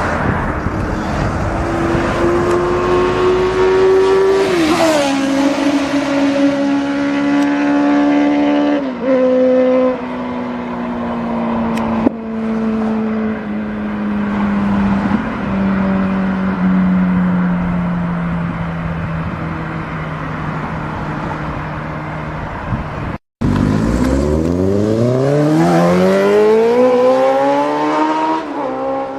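Inline-four sportbike engine pulling up through the revs with two quick upshifts, each a sudden drop in pitch, then holding a slowly falling note as the bike eases off. After a brief dropout, a hard pull rises steeply from low revs, with another shift near the end.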